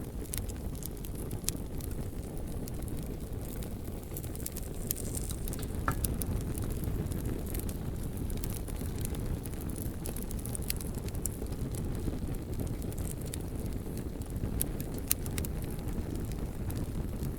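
Bonfire burning with a steady low rumble of flames and scattered sharp crackles and pops from the burning wood, a couple of them louder than the rest.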